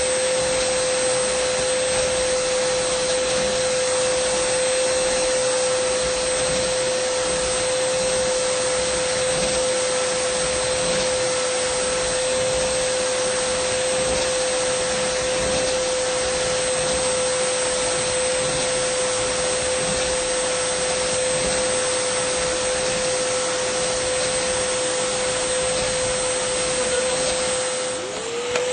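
Dyson vacuum cleaner running steadily: a constant rush of air with a steady whine. Near the end the sound dips briefly and the whine slides back up to pitch.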